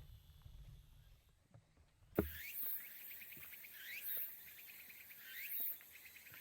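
Insects, most likely cicadas, calling in rising, pulsing buzzy phrases that repeat about every second and a half. They start abruptly about two seconds in, after a low wind rumble.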